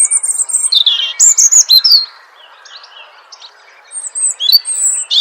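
Small songbird chirping: quick, high-pitched chirps and short trills in two bouts, a busy run over the first two seconds and another from about four seconds in, over a faint steady background hiss.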